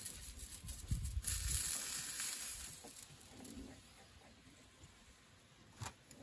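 Wieners sizzling in a frying pan on a portable gas stove as they are turned with wooden chopsticks. The sizzle fades after about three seconds, and a single sharp click comes near the end.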